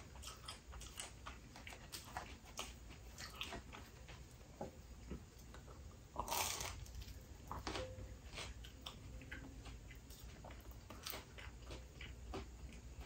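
A person chewing thin-crust spinach pizza: soft mouth clicks all through, with one louder bite into the crust about six seconds in.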